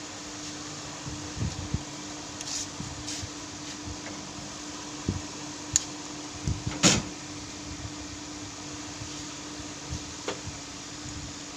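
Scattered light clicks and knocks of tools and metal engine parts being handled during reassembly, the loudest about seven seconds in, over a steady electric fan hum.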